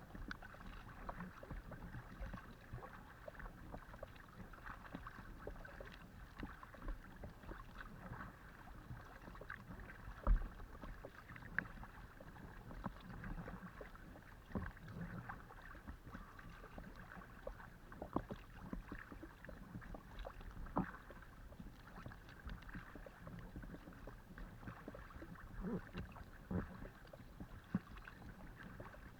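Kayak paddling: paddle blades dipping and splashing in the water, with water lapping along the hull of a Decathlon Itiwit x500 kayak and irregular small knocks. The loudest is a single thump about ten seconds in.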